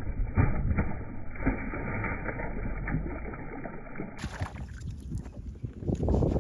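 Wind and water noise on a fishing boat, with scattered light knocks; the sound changes abruptly about four seconds in and grows louder near the end.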